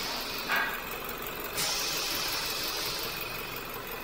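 Jaguar XE engine idling steadily under the open bonnet while the freshly topped-up coolant circulates to bleed air from the cooling system. There is a short clunk about half a second in.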